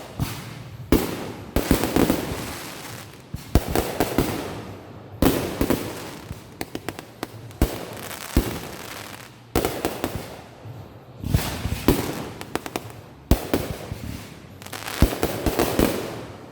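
Consumer fireworks going off in quick succession: repeated sharp bangs roughly every second, each trailing off into crackle, with flurries of rapid pops in between.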